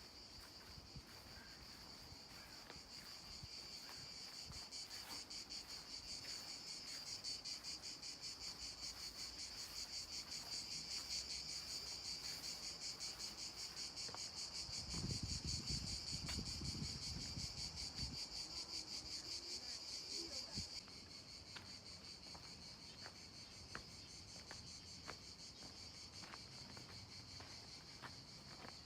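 Steady, high, finely pulsing shrill of insects, swelling toward the middle and dropping a step about two-thirds of the way through. A low rumble for a few seconds near the middle.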